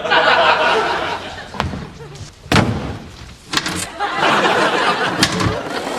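A few sharp knocks and thuds over a noisy murmur, the loudest a slam about two and a half seconds in.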